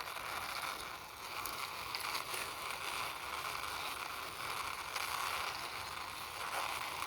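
Toy car's wheels rolling steadily as it is pushed along by hand, a continuous rolling rasp with a few small clicks.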